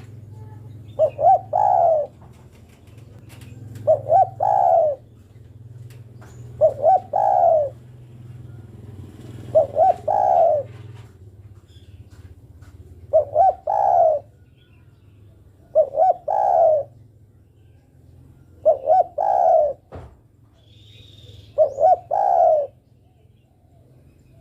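Spotted dove cooing: eight calls about three seconds apart, each two quick short coos followed by a longer one, which the uploader gives as a female calling for a male. A steady low hum runs underneath.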